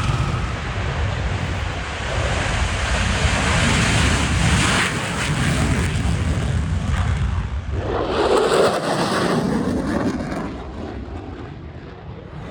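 Twin piston-engined P-38 Lightning flying past in an airshow display: a steady engine rumble with heavy wind noise on the microphone. The sound changes abruptly about eight seconds in and fades toward the end.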